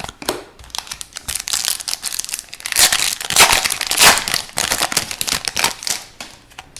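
Foil hockey card pack wrapper crinkling as it is torn open and crumpled by hand, loudest around the middle.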